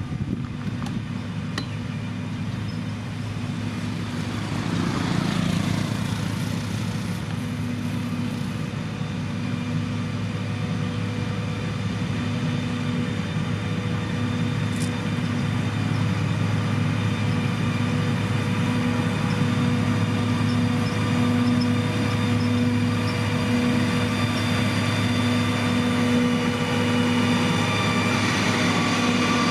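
Diesel engine of a heavy road-construction machine running steadily, slowly growing louder. A brief rushing sound comes about five seconds in.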